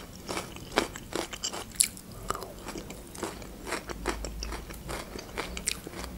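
Close-miked chewing of raw bell pepper: a quick, irregular series of crisp crunches as the mouthful is bitten and chewed.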